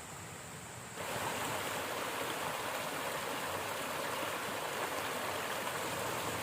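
River water flowing: an even rushing of water that starts abruptly about a second in and cuts off at the end.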